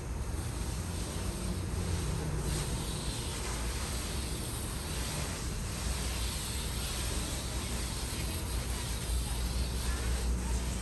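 Ford 7.3 L Powerstroke V8 turbodiesel engine running steadily with a constant low drone.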